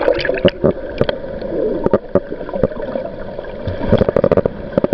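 Sea water sloshing and gurgling around a GoPro, with many sharp clicks and knocks throughout.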